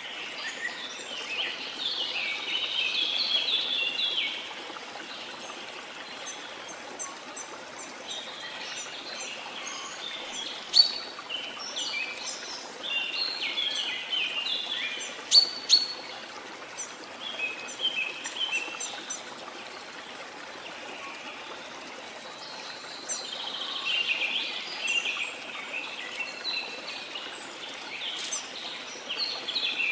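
A continuous rush of falling water, with birds chirping and singing over it in several bouts, including two short, sharp, louder calls near the middle.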